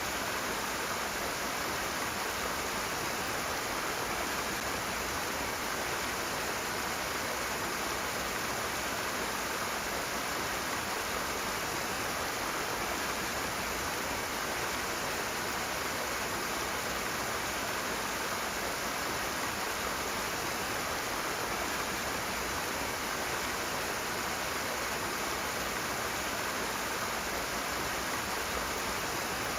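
Rushing water: a steady, unbroken rush of fast-flowing stream water.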